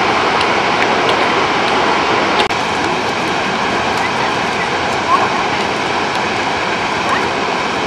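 Steady rushing roar of the Krimml Waterfalls, running high with snowmelt water. The level drops slightly about two and a half seconds in.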